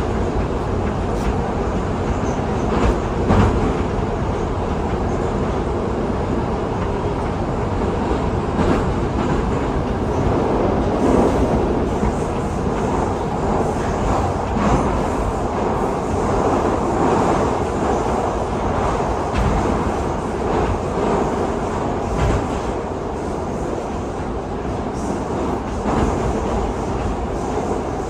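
Metro train of type 81-775/776/777 running at speed through a tunnel, heard from inside the car: a steady rumble of wheels and running gear, with a few sharp clicks over the rail joints.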